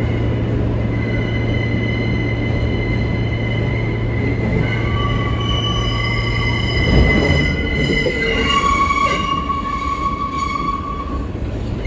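R143 subway car running, heard from inside the car: a steady rumble with high-pitched squealing tones that shift in pitch a few times, and a thump about seven seconds in.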